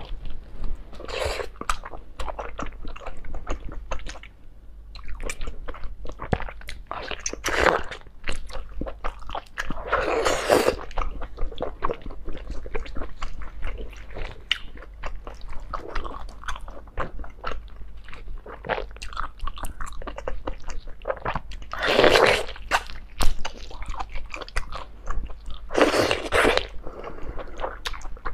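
A person chewing braised octopus and squid right at a clip-on microphone: steady wet chewing with many small mouth clicks, broken by a handful of louder half-second wet sounds.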